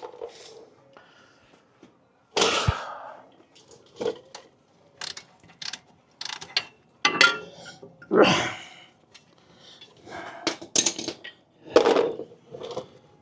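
Hand tools working on truck brake hardware: irregular ratchet clicks and metal clinks, with a few louder clunks, as just-loosened brake bolts are taken out.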